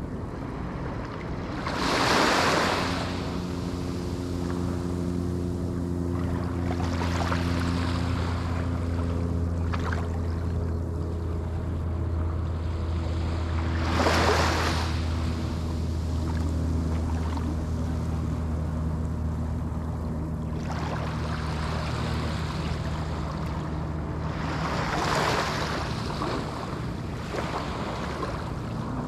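Small Atlantic waves breaking on a sandy shore, with three clear breaks about two, fourteen and twenty-five seconds in. Under them a motor hums, low and steady, through most of the stretch, fading near the end.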